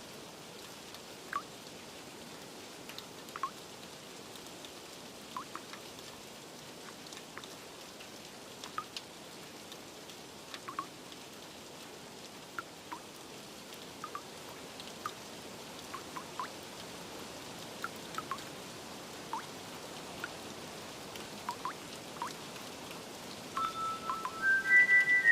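Steady rain hiss with scattered water drips plinking every second or so. Near the end, soft chime-like music notes begin.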